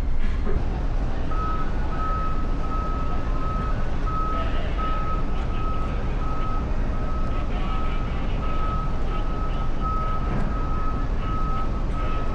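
An electronic warning beeper sounding a single steady tone, repeating about one and a half times a second, over a steady low rumble. It starts about a second in.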